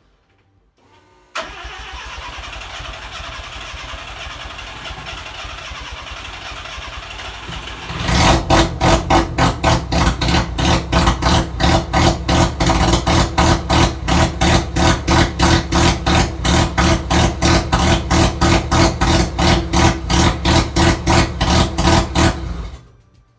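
Mazda RX 323's rotary engine on a first start attempt after its ignition coil wiring was corrected. A steady noise starts suddenly about a second in. From about eight seconds in comes a loud, even pulsing at about four beats a second, which stops abruptly near the end.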